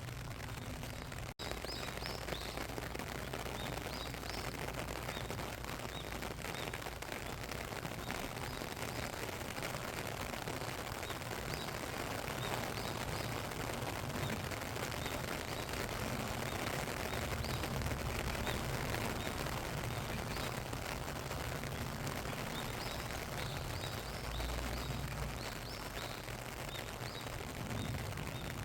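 Steady rain falling, an even hiss of dense patter, with small birds chirping briefly now and then. The sound drops out for an instant a little over a second in.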